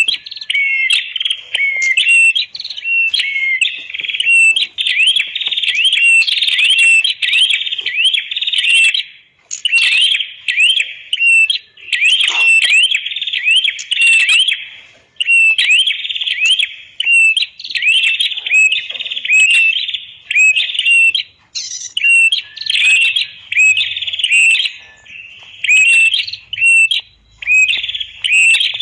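Red-headed prenjak (a prinia-type warbler) singing: a loud, fast string of repeated sharp chirps, a few a second, broken only by short pauses.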